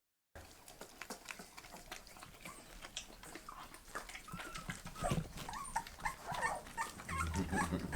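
Bull terrier puppies whimpering and squeaking in short, wavering high-pitched cries from about halfway in, over many small clicks.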